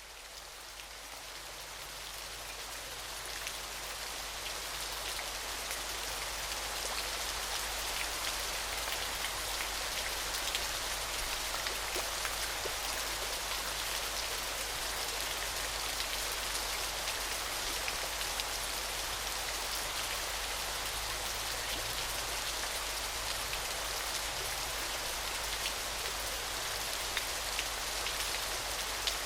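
Waterfall: a steady, dense hiss of splashing water with a fine patter of droplets, fading in over the first few seconds and then holding level.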